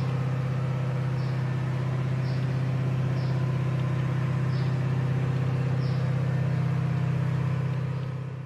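An engine or motor running steadily at an even, low pitch, with faint short high chirps about once a second; it fades out near the end.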